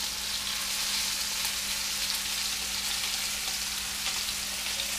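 Toady (puffer fish) pieces sizzling steadily in hot oil in frying pans, with a faint low hum underneath.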